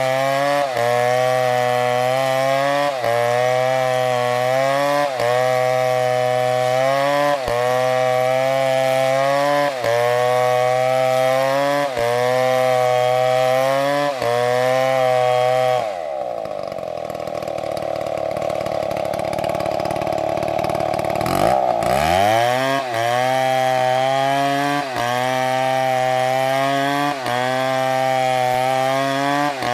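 Chainsaw engine running at high revs, with a short dip in its note about every two seconds. Past halfway the note changes to a rougher sound for several seconds, then drops sharply and climbs back up to speed.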